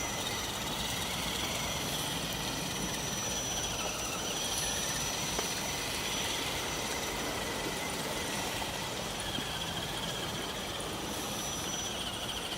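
RC 4x4 jeep's electric motor and gears whining steadily, the pitch drifting up and down with the throttle.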